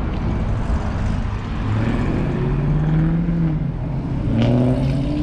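Car engines as a Chevrolet Camaro and then an Audi sedan pull out across a parking lot, the engine note climbing twice as they accelerate away.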